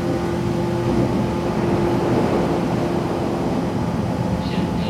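Running noise inside a JR West 117-series electric train carriage: a steady rumble with a humming tone that fades out between one and two seconds in.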